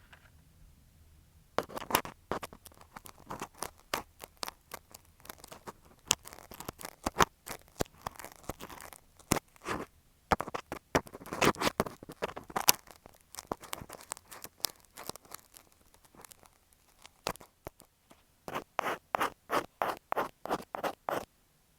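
Ear pick scratching and scraping against an earphone microphone in irregular strokes. After a short pause near the end, it scratches in an even run of about three to four strokes a second.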